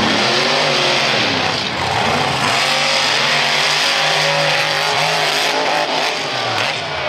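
Monster truck engines revving hard at full throttle, their pitch rising and falling repeatedly.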